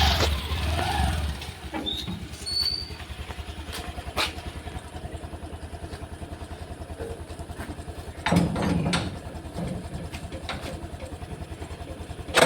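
Motorcycle engine idling with a fast, even putter, with a few clicks and a short louder clatter about eight seconds in.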